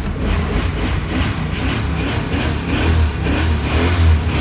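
1996 GMC 1500's 350 V8 running loudly with a heavy, uneven low rumble, just after firing up on a cold start after sitting for years.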